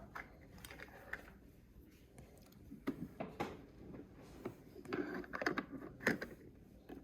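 Scattered light clicks and taps of small plastic toy kitchen pieces being handled and set in place, with a few sharper knocks about 3 and 6 seconds in.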